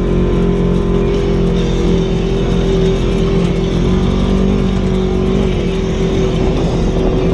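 Off-road vehicle engine running at a steady speed. It makes a constant droning whine over rough, noisy driving sound.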